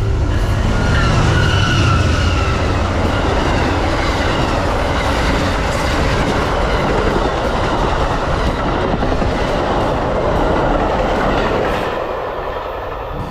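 Amtrak passenger train passing at speed: steady rail noise and rumble from the cars rolling over the track, with a faint wheel squeal early on. It eases off a little near the end.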